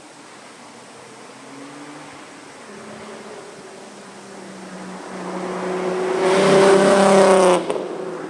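Volkswagen R32's 3.2-litre VR6 engine and exhaust as the car drives by: the engine note grows steadily louder as it approaches, is loudest for about a second, from around six and a half seconds in, and then drops away suddenly as it passes.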